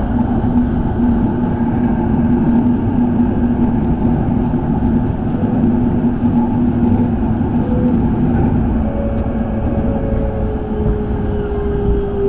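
Running noise inside an electric commuter train: a steady rumble of wheels on rail with a hum. Over the last few seconds a whine slowly falls in pitch.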